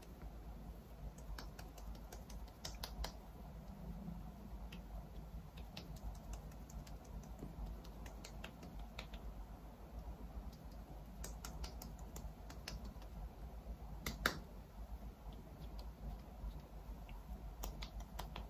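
Scattered light clicks and taps, a few in quick clusters and one sharper click about 14 seconds in, over a faint steady low hum.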